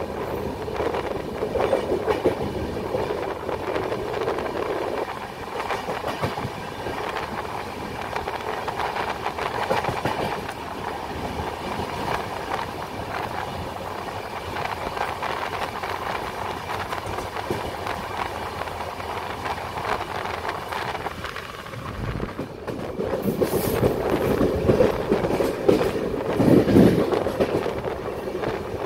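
Passenger train running at speed, heard from an open carriage doorway: a steady rumble of wheels on rails with clickety-clack over the rail joints. It grows louder and harsher about twenty-three seconds in.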